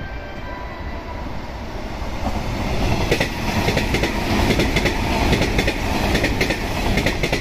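Hanshin 8000 series electric train approaching and running past close by without stopping, its rumble growing louder. From about three seconds in its wheels clack over rail joints in quick succession.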